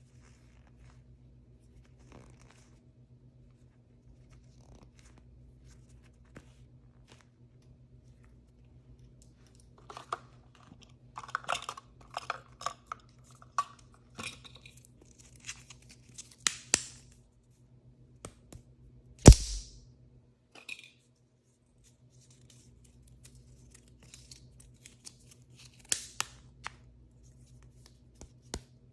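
Packaging being torn open and crinkled by hand. Quiet with faint taps for the first several seconds, then tearing and crackling from about ten seconds in, with a sharp loud snap a little before twenty seconds and a smaller one near the end.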